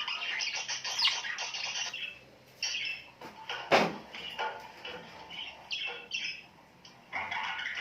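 Small birds chirping and chattering busily in quick, overlapping high calls, thinning out a couple of times. A single sharp knock comes a little before the middle.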